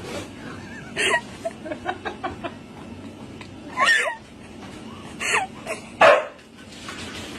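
A dog giving about four short, pitched barks spread over several seconds.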